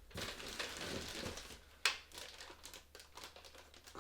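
Packaging crinkling and rustling as kit parts are handled and unwrapped, with one sharp snap a little under two seconds in.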